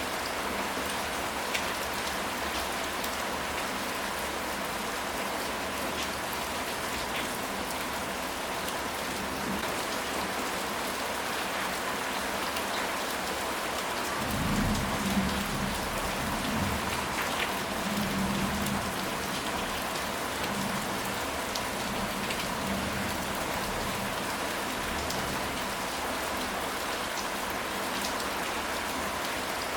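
Steady rain falling on surfaces, with scattered individual drops ticking. About halfway through comes a low rumble of thunder lasting several seconds.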